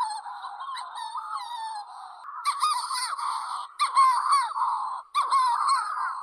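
Petrels calling: many overlapping calls that sweep up and down in pitch, with brief breaks about four and five seconds in.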